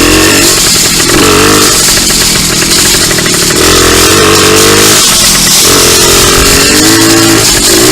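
Two-stroke dirt bike engine revving up and dropping back several times, loud and close.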